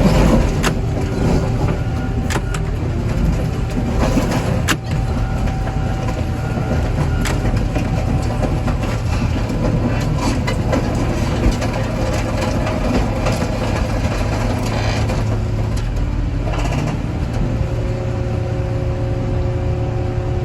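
Heavy diesel machinery running steadily under load, with sharp bangs and crunches of car metal, several of them in the first five seconds. Steady whining tones come and go later on.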